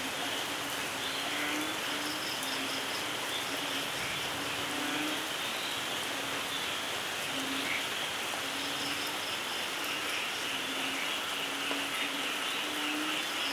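Steady rainfall in a rainforest, with frogs calling over and over in short low notes and two short runs of rapid high insect chirps.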